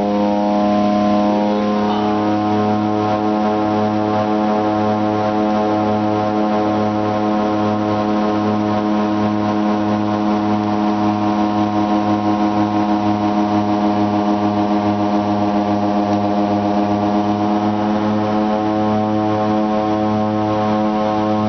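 Twin-turboprop aircraft's propellers droning steadily. The drone has a throbbing beat, as the two propellers run slightly out of step. The beat quickens in the middle and slows again near the end.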